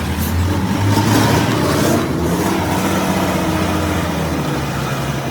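Heavy truck engine running, louder for a second or so about a second in, then steady.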